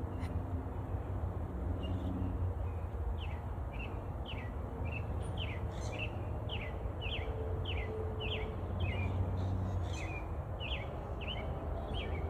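A songbird calling: a long run of short, falling chirps, about two a second, over a steady low background rumble.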